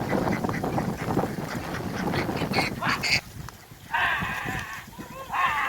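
A flock of domestic ducks quacking together, the noise dipping briefly a little past the middle before the calling resumes.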